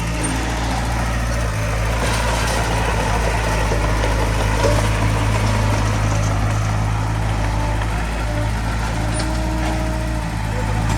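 Heavy diesel machinery engine running steadily with a deep, even drone.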